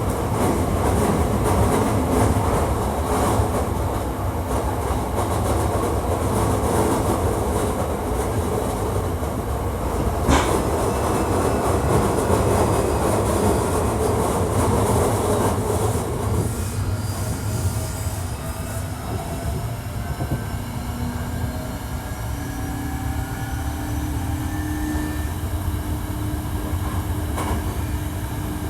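Hankyu 1300 series electric train running, heard from inside: dense rolling and motor noise for the first half, with a sharp click about ten seconds in. The running noise then drops, and thin whining tones that glide slowly in pitch come through over it.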